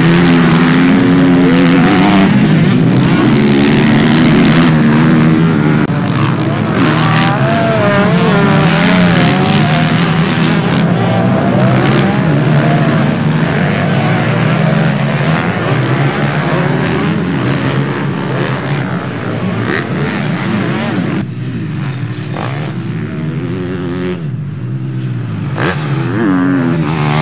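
Several motocross motorcycle engines revving, their pitch rising and falling as the bikes accelerate and shift. The sound eases for a few seconds near the end, then another bike revs up.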